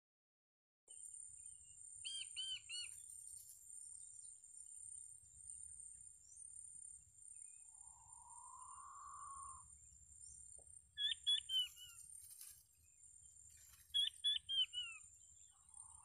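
A bird calling in quick groups of three or four short chirps, three times over the stretch, over a steady high-pitched whine. A softer hoarse rising call comes twice.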